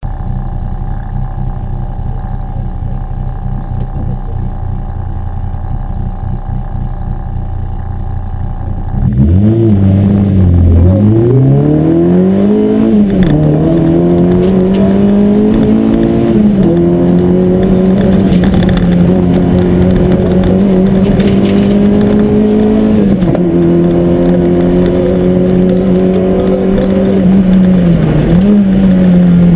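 Peugeot 205 GTI rally car's engine heard inside the cabin: idling steadily, then about nine seconds in it pulls away hard, the pitch climbing and dropping with each of several quick upshifts. It then runs at a fairly steady high pitch, with brief dips at the later gear changes.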